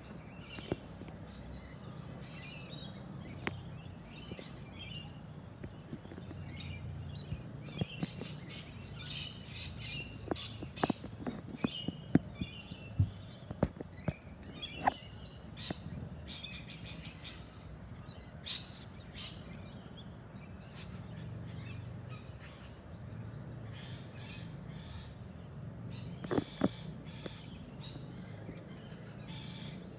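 Several backyard birds chirping and calling in short high bursts, over a steady low rumble. Sharp clicks, the loudest sounds, come in a cluster around the middle and again a few seconds before the end.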